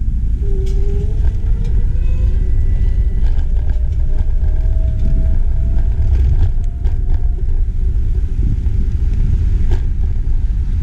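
Steady low wind rumble buffeting an action camera's microphone while cycling, with a faint rising whine through the middle.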